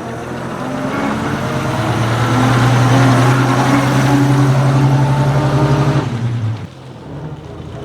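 Vintage car passing close by, its engine running at a steady pitch. The sound builds for about three seconds, holds, then drops away sharply about six and a half seconds in.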